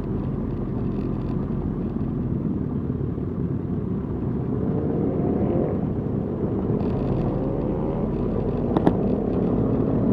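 Suzuki GSX-R 1000 inline-four motorcycle engine running at parade pace with a steady low rumble. Its pitch rises twice as it accelerates, and there is a single sharp click about nine seconds in.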